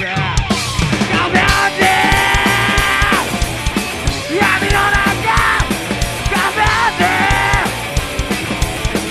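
Live rock band playing with drums and distorted guitar, with sung or yelled vocal lines held over the music in several stretches.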